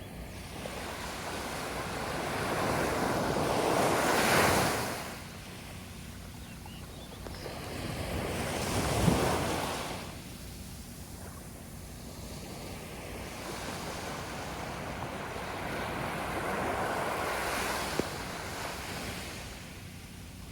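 Sea waves breaking and washing up on a beach: three slow surges, each building and falling away, the loudest about four seconds in.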